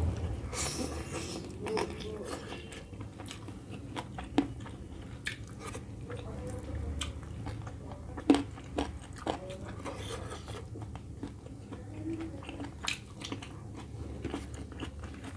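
A person chewing a mouthful of chicken curry and rice close to the microphone: wet mouth smacks and scattered sharp clicks, the sharpest about eight seconds in, over a low steady hum.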